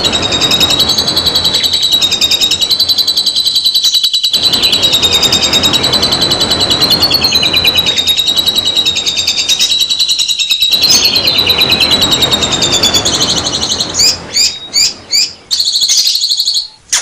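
White-eye (pleci) singing a long, continuous, rapid warbling song that stays near one high pitch. Near the end it breaks into a few short separate chirps.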